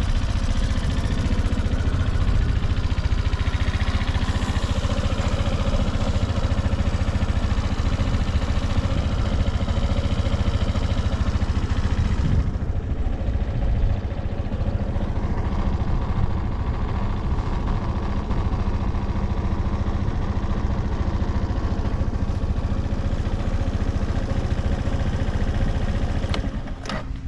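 Suzuki Address V125S scooter's single-cylinder four-stroke engine idling steadily, running without abnormal noises. Near the end there is a click and the sound drops a little.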